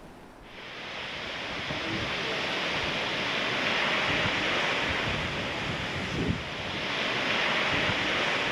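Sea waves washing, swelling up twice, with wind buffeting the microphone.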